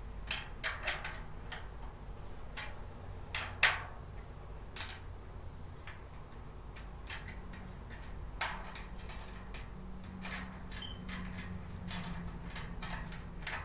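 Irregular light clicks and taps of storage-cart parts being handled and fitted together during assembly, with one sharper knock about three and a half seconds in.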